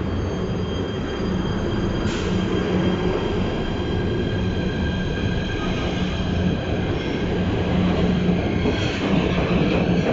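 PATH rapid-transit train running through the station: a low rumble of wheels on rail, with a steady high-pitched squeal of several held tones above it.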